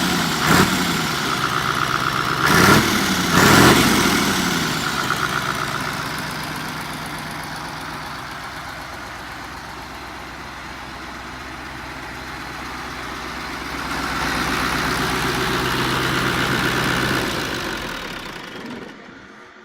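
Mercedes-Benz OM442A V8 diesel engine revved in three quick throttle blips early on, then settling back to a steady run. It swells a little later, then dies away near the end as it is shut off.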